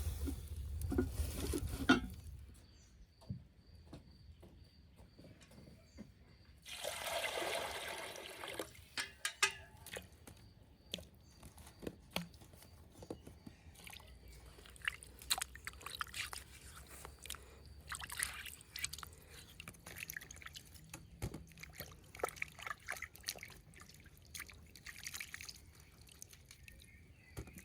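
Water pouring for about two seconds a quarter of the way in, amid scattered light clicks and knocks of kitchen handling.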